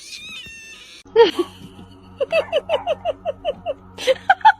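Cat meowing: a high call at the start, a louder call about a second in, then a quick string of about eight short, evenly spaced meows, and a few more near the end.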